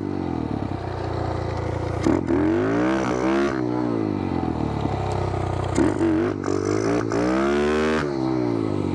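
Kawasaki KLX110 pit bike's small single-cylinder four-stroke engine revving up and easing off twice, as the clutch is popped in first gear to lift the front wheel.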